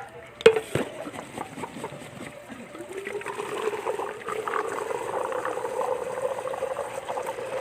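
Gasoline pouring into a vehicle's fuel tank, a steady gurgling pour whose pitch slowly rises as the tank fills. A couple of sharp clicks come just before the pour starts.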